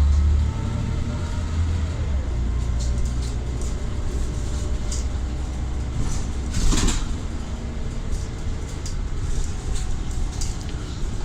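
Scania Omnicity single-decker bus running, its engine giving a steady low rumble with a faint gliding whine from the ZF automatic gearbox in the first couple of seconds. Light rattles throughout and a short hiss about two thirds of the way in.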